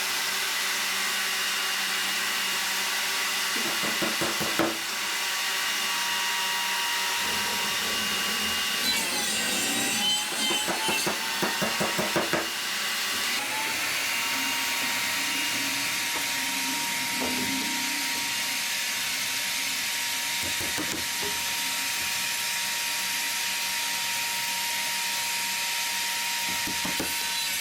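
Wooden sticks being sawn: a steady rasping with a thin whine running underneath, and a quick run of fast sawing strokes a little before the middle.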